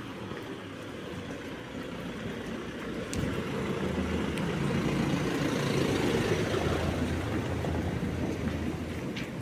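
A motor vehicle drives past on a wet street, its engine hum and tyre hiss swelling to a peak a little past midway and then fading.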